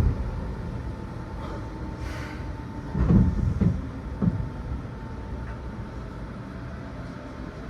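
Seibu New 2000 series commuter train heard from on board while running: a steady rumble of wheels on rail, with a quick run of three or four heavy clunks about three to four seconds in as the wheels pass over rail joints or points.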